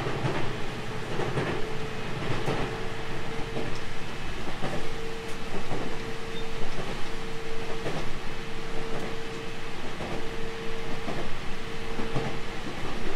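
JR 313 series electric train running at speed, heard from inside the car: a steady rumble with a steady hum, and wheels clicking over rail joints about once a second.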